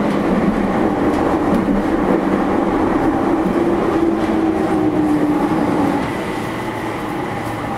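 JR East E231-series electric train running through the subway tunnel, heard from inside the car: wheel and track noise with a motor hum that rises slightly, then sinks in pitch and dies away. The running noise drops about six seconds in.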